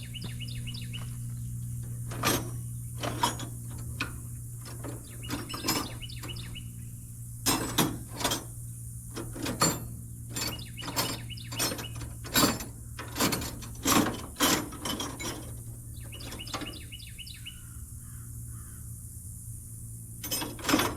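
Hand tools clinking and knocking on metal in irregular strokes while bolts are worked on a small diesel tractor, with birds chirping at times and a steady low hum underneath.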